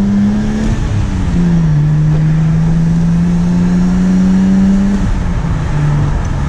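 Car engine heard from inside the cabin under way, pulling steadily with its pitch slowly climbing; the revs dip about a second in, build again, then fall away about five seconds in.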